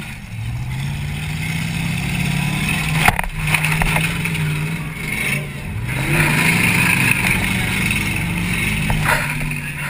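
1994 Mercury Grand Marquis's 4.6-litre V8 revving hard, heard from inside the cabin, its pitch climbing twice as the throttle opens. A loud crash of a hit about three seconds in and a smaller bang near the end.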